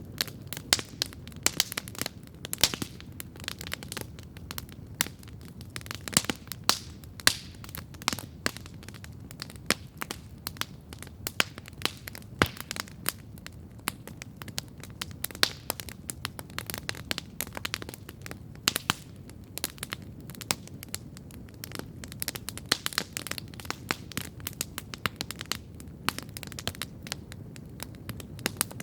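Wood campfire crackling steadily, with irregular sharp pops and snaps over a low, soft rumble of the burning fire.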